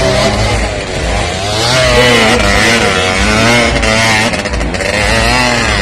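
Engine of an off-road competition vehicle running loud, its pitch rising and falling repeatedly as it is revved and eased off.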